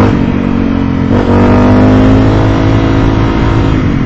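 Motorcycle engine running under way while riding, its pitch dropping and climbing again as it shifts gears: once near the start, about a second in, and again near the end.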